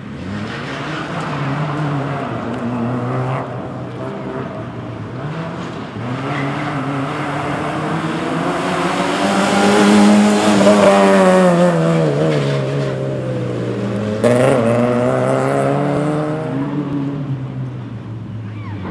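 Small hatchback's petrol engine, a Fiat Seicento on a rally stage, revved hard through the gears. Its pitch climbs and drops with each gear change. It is loudest and highest as the car passes close about ten seconds in, with another sharp burst of revs near fourteen seconds.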